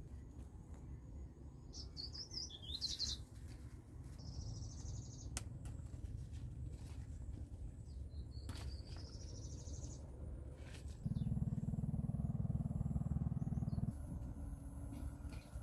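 Small birds chirping and trilling in three short phrases over a low rumble, with a few sharp clicks. About eleven seconds in, a louder low steady hum sets in for about three seconds and cuts off abruptly.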